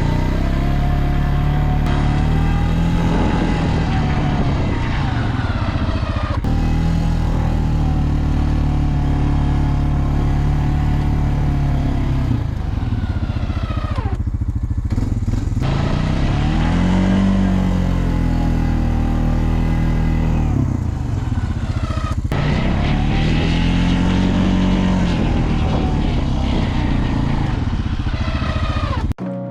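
Snowplow vehicle's engine working hard while pushing deep snow, its pitch rising and falling in slow swells of a few seconds as it revs up and eases off with each push. The sound cuts off suddenly near the end.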